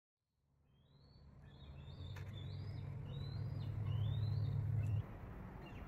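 Birds chirping, a series of short rising calls, over a low steady hum that fades in and then cuts off abruptly about five seconds in.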